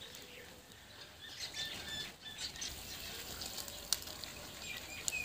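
Faint, scattered bird chirps over a low steady hiss, with one sharp click about four seconds in.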